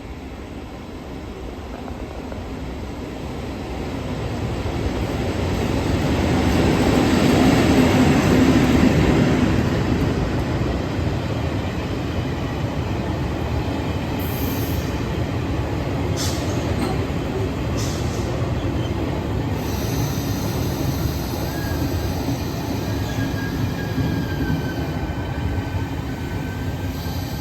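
Sightseeing passenger train running through an underground station without stopping. It builds to its loudest about a third of the way in, then goes by as a steady rumble of wheels on rail, with a faint thin squeal near the end.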